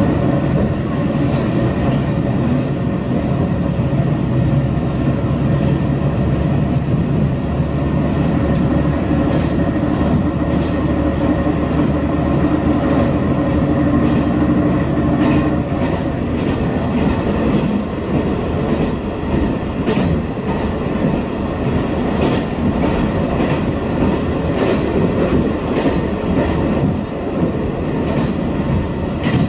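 Hisatsu Orange Railway HSOR-100 diesel railcar running at speed, heard inside the carriage. A steady low engine hum fades out about halfway through, leaving the rumble of wheels on rail with irregular clicks over the rail joints.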